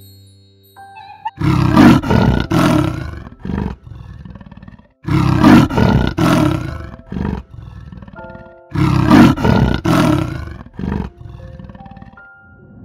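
A big cat roaring three times, each roar lasting two to three seconds, over quiet background music.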